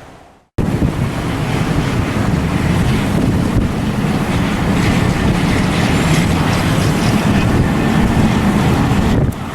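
Strong blizzard wind buffeting the microphone: a loud, steady rushing roar that starts abruptly about half a second in.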